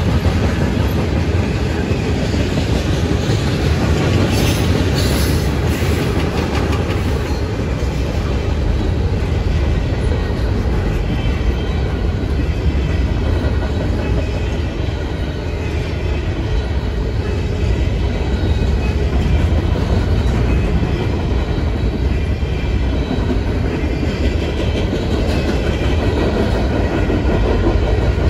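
Freight train cars rolling past: a continuous, steady rumble of steel wheels on the rails.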